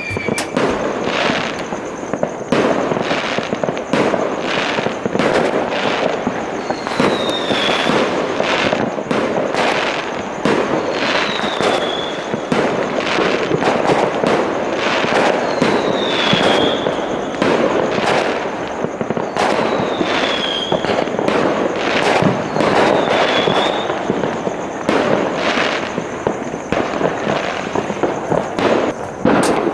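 Many fireworks going off at once from all around, a near-continuous run of bangs and crackle. A short falling whistle recurs about five times, roughly every four seconds.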